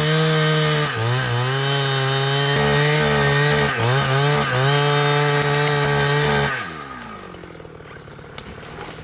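Two-stroke chainsaw running at high revs, dipping in pitch briefly twice, then throttled back to idle about six and a half seconds in.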